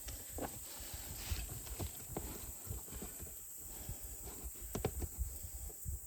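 Scattered, irregular knocks and clicks, with a cluster of sharper ones about five seconds in.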